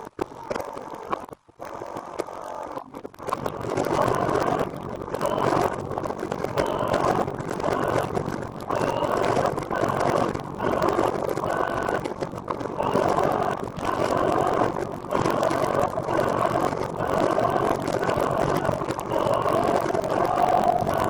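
Steady rushing wind and road noise from riding a recumbent trike, dipping briefly every second or two, with a couple of short drop-outs near the start.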